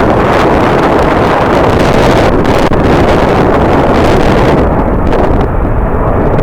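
Strong wind buffeting the microphone: a loud, steady rushing roar with a low rumble, its hiss dulling about four and a half seconds in.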